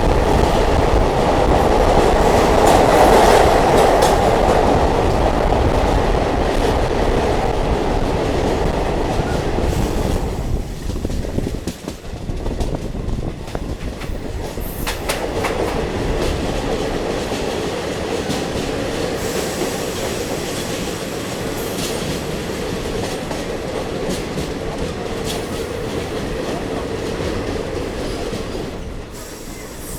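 Diesel multiple unit train running along the track, heard from on board: a steady rumble with wheels clicking over the rail joints. It is loudest in the first ten seconds, drops off suddenly about eleven seconds in, then runs on steadily at a lower level and eases again near the end.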